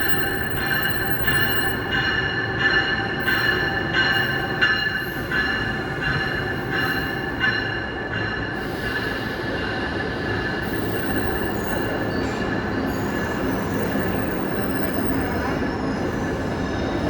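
Amtrak passenger train at a station platform: a bell rings steadily, nearly twice a second, for about the first eight seconds. After that come irregular high-pitched squeals of steel wheels and brakes on the rails.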